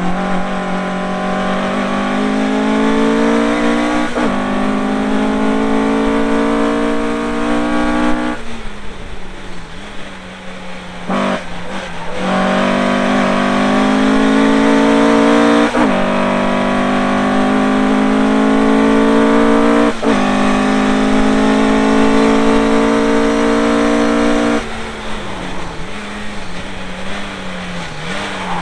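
Car engine at full throttle on a race track, its pitch climbing and then dropping sharply at each upshift, about 4, 16 and 20 seconds in. It goes off throttle around 8 seconds in and again near the end, leaving a lower, quieter sound of the car running.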